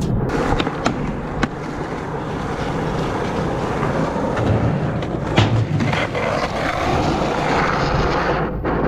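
Skateboard wheels rolling steadily, with a few sharp clacks from the board.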